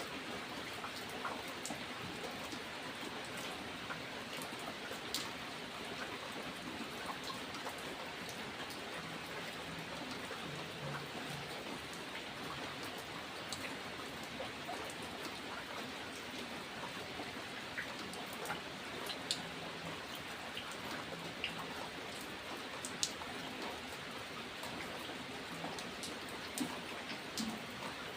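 Steady rain falling, an even hiss with scattered sharper drops ticking now and then.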